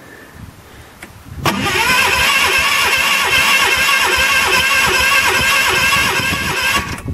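Electric starter cranking the Ariens loader's cold engine for about five seconds without it catching. It is a steady starter whine with even compression pulses, stopping abruptly. The engine is hard-starting in the cold.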